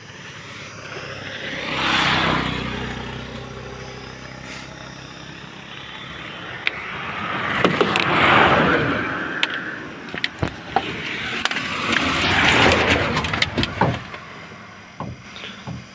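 Road vehicles passing by one after another, each swelling and fading away: three pass-bys, about two, eight and twelve seconds in, with a few sharp clicks between them.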